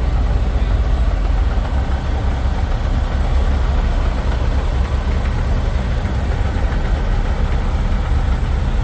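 Semi truck diesel engines idling, a steady low-pitched running sound.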